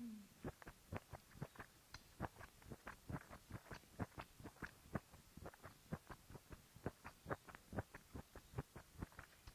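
Close-up chewing and wet mouth sounds of a person eating spicy instant noodles: a steady run of soft, quick clicks, several a second.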